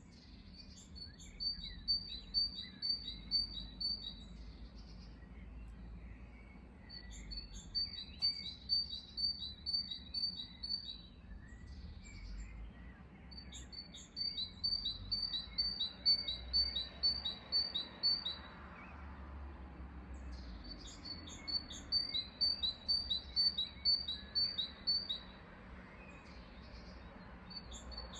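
A songbird giving rapid trains of high, evenly spaced chirps, each train lasting about three seconds and coming back every six to seven seconds, four times over. Fainter, scattered calls from other birds go on underneath.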